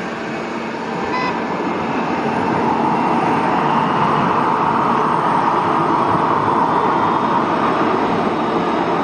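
Jet airliner engines running with a steady rushing roar that grows louder about a second in and then holds.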